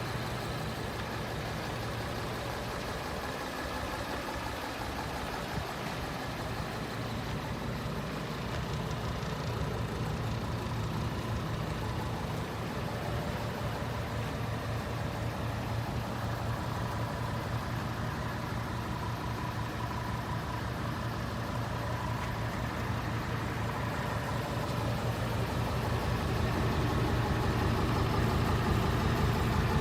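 Hino J08C inline-six diesel engine idling steadily, getting a little louder near the end.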